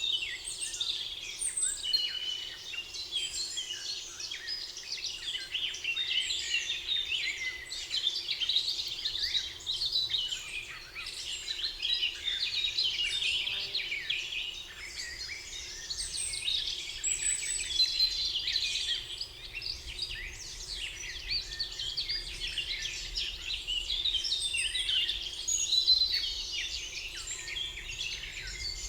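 A chorus of many songbirds singing at once, dense overlapping chirps and trills with no single bird standing out, over a faint steady hum.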